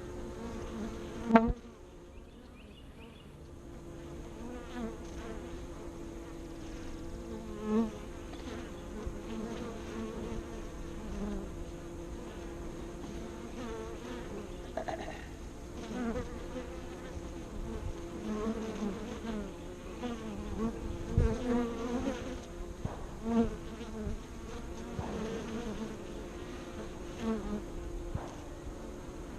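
Honeybees buzzing at busy hive entrances: a steady hum of the colony with individual bees swelling loud and fading as they fly close past. A single sharp knock about a second in.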